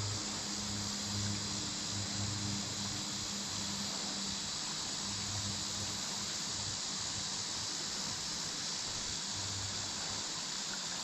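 Steady, unbroken high-pitched insect chorus, with a low pulsing hum underneath that fades out about halfway through.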